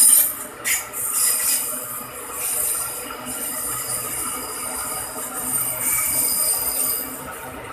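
Container freight train's flat wagons rolling past, steel wheels running on the rails with a steady high-pitched squeal and an occasional clank.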